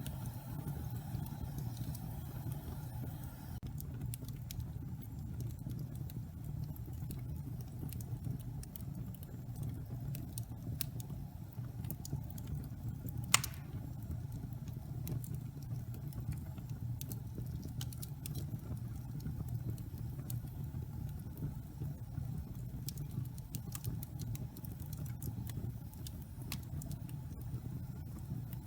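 Log fire in a fireplace burning with a steady low rumble and scattered small crackles, and one sharp, loud pop about halfway through.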